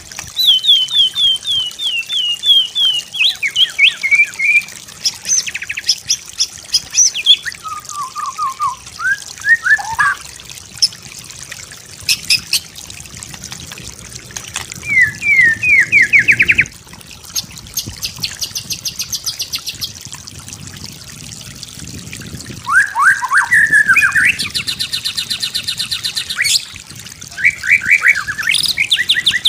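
White-rumped shama singing a varied song: phrases of repeated sliding whistled notes, each series at a different pitch, with fast high trills between them and short pauses between phrases.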